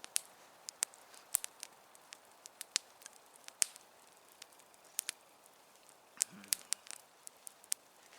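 Wood campfire crackling, with irregular sharp pops and snaps scattered through it.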